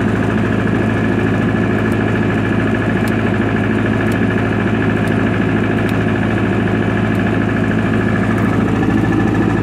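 1995 Libby MEP-803A 10 kW military diesel generator running steadily, its four-cylinder Onan diesel engine giving an even, low drone.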